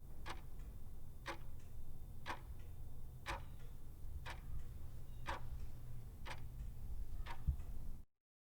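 Regular ticking, one sharp tick each second, eight ticks in all, over a faint low hum. The sound cuts off to silence about eight seconds in.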